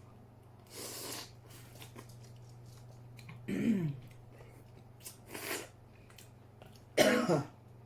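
A woman coughing and clearing her throat: short breathy bursts and two louder voiced coughs with a falling pitch, about three and a half and seven seconds in.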